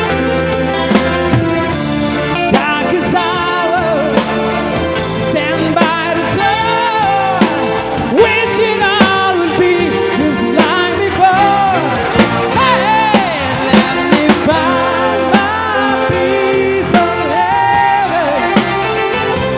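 Band playing a rock power ballad: drums and sustained chords under a lead melody that slides and wavers in pitch.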